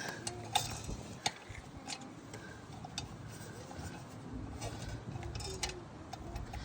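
Light, irregular clicks and taps of small metal mower parts being handled and fitted, such as the carburetor and governor linkage pieces.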